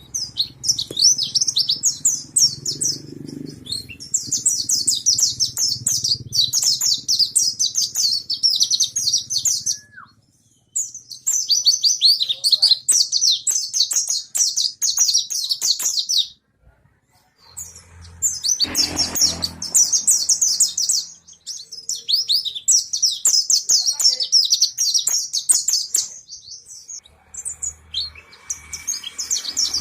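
Mountain white-eye singing in full voice: long runs of fast, high, twittering warble, broken by short pauses about ten and sixteen seconds in.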